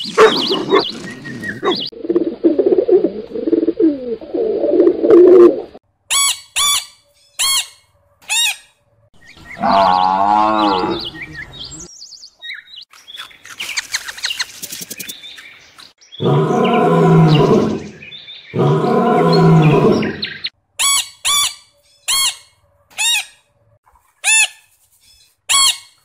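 A run of different animal calls: bursts of short, high chirps repeated about twice a second, a quavering call around ten seconds in, and two long, low calls a few seconds later.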